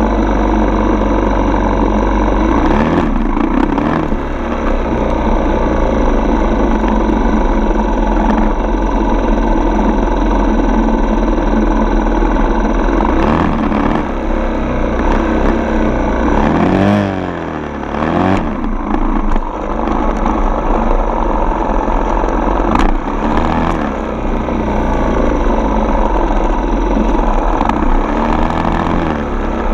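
Dirt bike engine running while riding, its note dipping and rising again several times as the throttle is eased and reopened, most plainly about seventeen seconds in.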